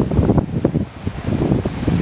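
Wind buffeting the microphone, gusty and uneven, easing briefly about a second in.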